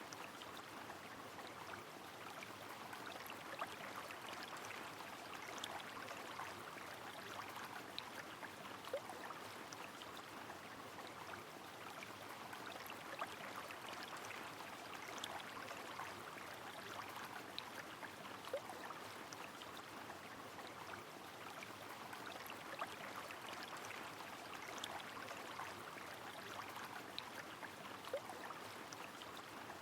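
Rain and a flowing river: a steady, even rushing hiss of water with many scattered, sharp ticks of individual drops.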